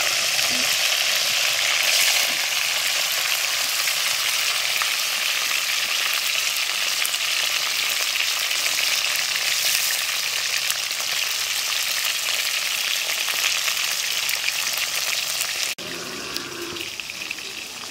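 Paneer cubes sizzling hard as they fry in hot mustard oil in a kadhai. The sizzle drops sharply to a quieter level about two seconds before the end.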